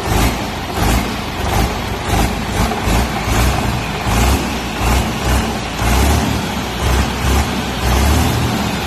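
Deutz BF6L913 air-cooled, turbocharged six-cylinder diesel engine running. Its sound swells and eases in a steady rhythm, a little more than once a second.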